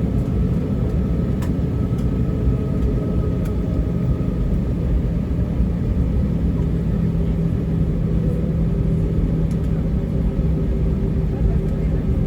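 Steady low rumble inside the cabin of an Airbus A320-232 with its IAE V2500 engines running. A few faint steady hums sit on top of the rumble.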